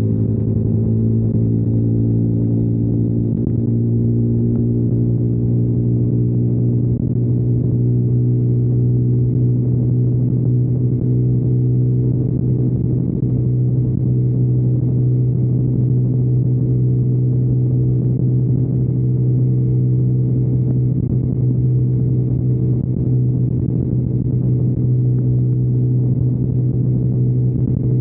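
2021 KTM Duke 125's single-cylinder engine running through an aftermarket Storm GP exhaust, held at steady revs while riding. The exhaust note is a constant low drone with no revving or gear changes.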